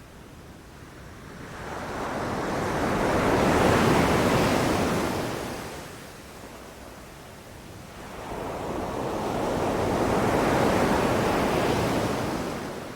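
Ocean waves breaking on a beach, two slow swells of surf in a row, each building and fading over several seconds with a quieter lull between.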